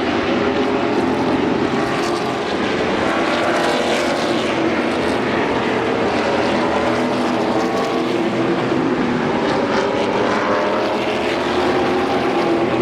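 Stock car engine noise, loud and steady, with a wavering drone throughout.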